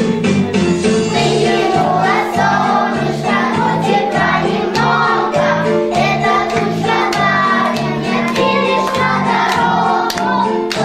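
A group of young children singing a song in unison over a recorded backing track with a steady pulsing bass. The backing plays alone at first, and the voices come in about two seconds in.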